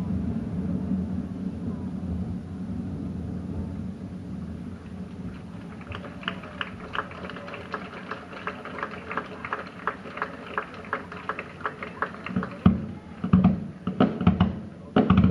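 Fireworks display: a low rumble of shell bursts dying away, then a long run of fast crackling pops from about six seconds in, and several louder booms of new shells near the end.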